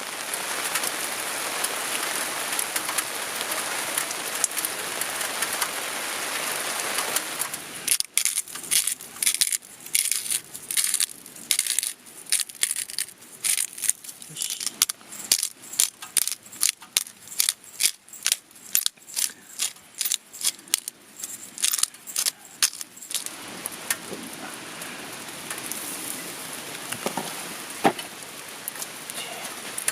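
Steady rain for about seven seconds, then a long run of sharp crunching clicks, about three a second, for some fifteen seconds, before the rain is heard alone again near the end.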